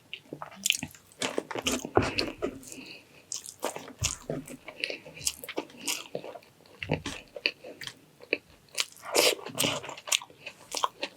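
A person eating close to the microphone: irregular biting, chewing and wet mouth clicks with some crunches.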